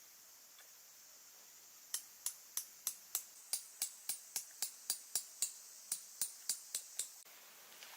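A steady run of about eighteen sharp, light taps, three to four a second, starting about two seconds in and stopping about a second before the end, over a faint hiss that cuts off just after the last tap.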